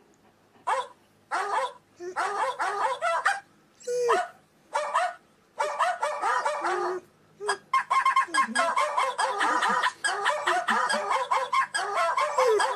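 German Shepherd dog vocalizing: a run of short pitched barks and calls with gaps between them, turning into an almost unbroken string of calls from about the middle on.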